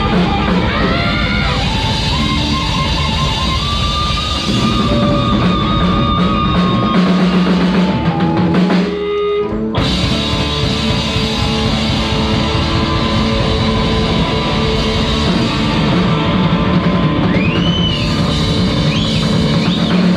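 Live rock band playing an instrumental passage: drum kit, bass and electric guitar, the guitar bending notes near the start and again near the end. The band thins out briefly about nine seconds in, then comes back in full.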